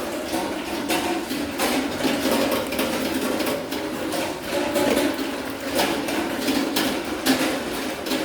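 A sow eating: chewing and working at her feed, with irregular clicks and knocks throughout.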